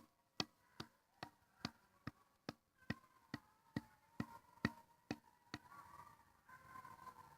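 Dogs howling far off, a faint wavering cry that comes through more clearly in the last couple of seconds. Over it, a steady run of sharp ticks, about two and a half a second, stops about five and a half seconds in.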